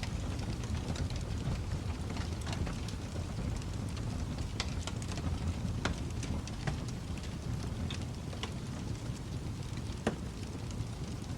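Wood fire crackling in a fireplace: a steady low rumble of flames with scattered sharp pops, the loudest about ten seconds in.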